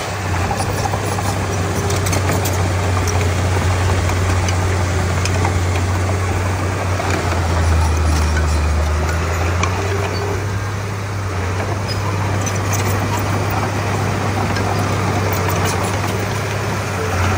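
Diesel engine of heavy earthmoving machinery running steadily with a deep hum. Around the middle the note drops lower and grows a little louder for about two seconds, then settles back.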